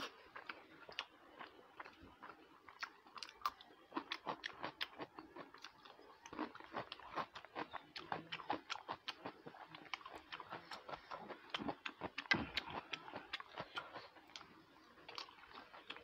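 A person chewing food close to a lapel microphone: wet mouth clicks and smacks come in quick, irregular succession as she eats rice with fried pieces by hand.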